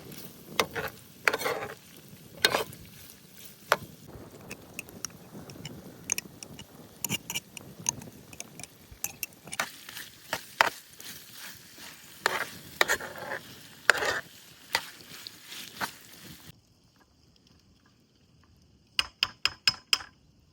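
A utensil stirring and scraping in a cooking pot or pan, with many sharp knocks of metal on metal. It cuts off suddenly, and near the end comes a quick run of about seven taps.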